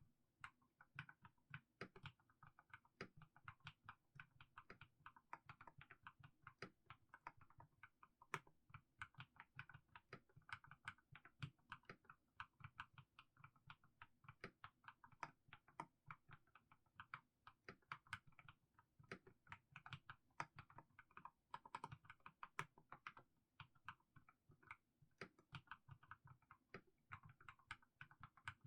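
Mechanical keyboard with fully lubed Haimu Sea Salt switches being typed on slowly and steadily, a few keystrokes a second, each a short clack.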